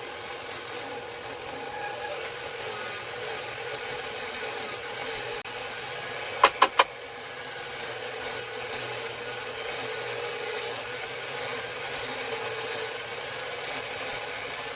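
A small power tool's motor running steadily, turning the cue while its new leather tip is trimmed down, with a steady tone over a grinding hiss. Three sharp clicks come in quick succession about six and a half seconds in.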